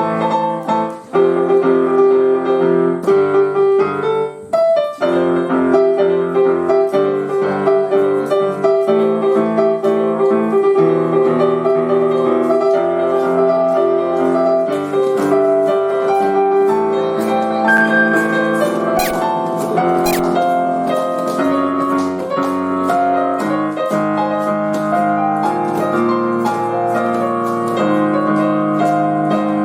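Piano being played: a continuous melody over chords, with notes struck and held throughout.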